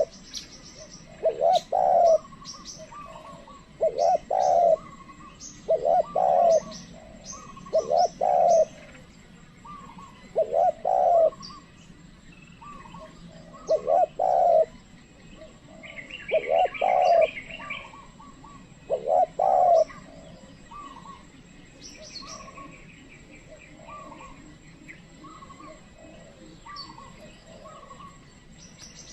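Spotted dove cooing, a loud short phrase of clustered coos every two to three seconds, about eight times. Small birds chirp faintly, with a brief higher trill a little past halfway.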